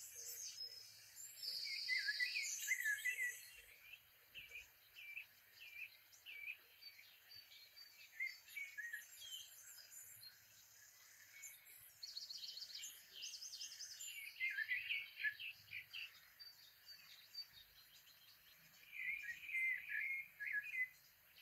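Several birds chirping and singing in clusters of quick, high calls and trills, busiest a couple of seconds in, around the middle and near the end, over a faint steady outdoor hiss.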